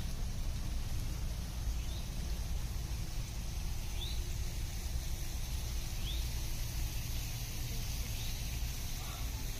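Park ambience: a bird giving a short chirp about every two seconds over a steady high insect hiss and a low rumble.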